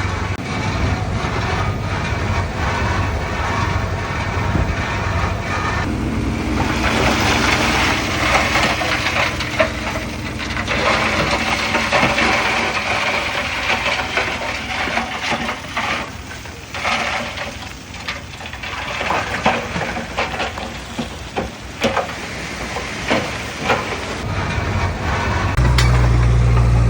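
Crawler bulldozer's diesel engine running under work, with track and blade clatter and scattered knocks from about six seconds in. A deeper, louder engine hum comes in near the end.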